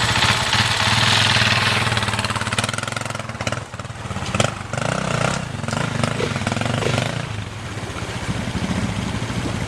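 Dirt bike engine running close by with a rapid, even firing pulse. Several sharp knocks sound in the middle.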